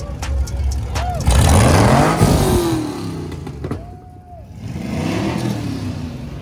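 Classic cars cruising past, engines running, the loudest passing about two seconds in and another swelling up about five seconds in.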